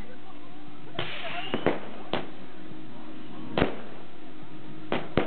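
Fireworks going off: about seven sharp bangs at irregular intervals, some in quick pairs, the first trailed by a short hiss.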